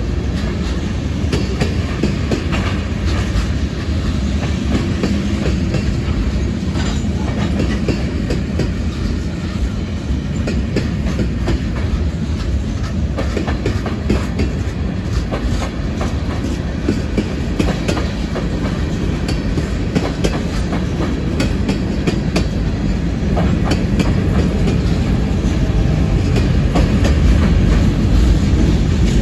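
Railroad cars rolling past, a steady rumble with wheels clacking over rail joints, growing a little louder near the end.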